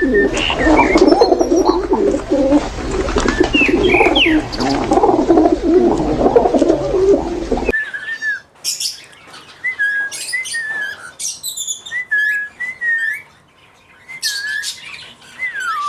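A flock of aviary birds (small parrots) chattering loudly and densely; about halfway through it cuts off abruptly to a quieter stretch of separate, short whistled calls that bend up and down in pitch.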